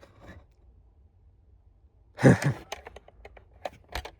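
A person lets out a sigh, a breathy exhale with a falling voice, about two seconds in. It is followed by several light clicks and taps as a diecast toy trailer is handled.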